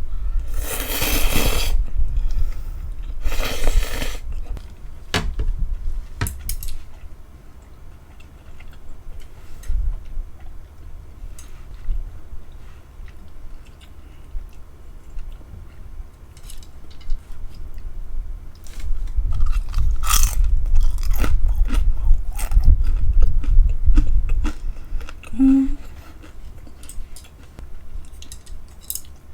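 Close-miked eating: two crunchy bites about a second and three and a half seconds in, then chewing with small wet clicks, heavier chewing again after about nineteen seconds.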